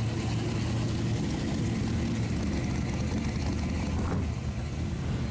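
Classic cars' engines rumbling at low speed as they cruise slowly past close by, one after another.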